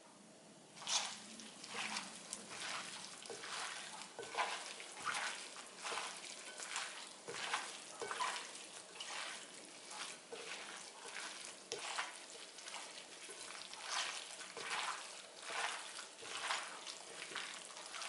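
Blanched napa cabbage being squeezed and tossed by hand with seasoning in a bowl: soft, wet squishing about twice a second.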